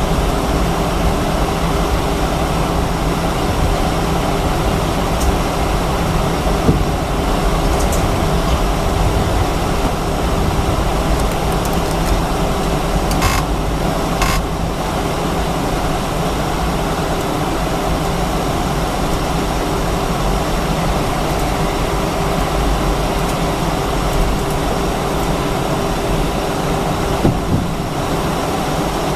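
Steady cabin drone of an Airbus A319-132 on the ground with its IAE V2500 jet engines at idle, heard from inside the passenger cabin: a constant low rumble with a steady hum tone. A couple of brief clicks come a little before halfway.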